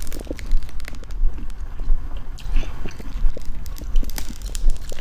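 Close-up chewing with wet mouth and lip-smacking sounds, in a steady rhythm of about two chews a second, over a constant low rumble.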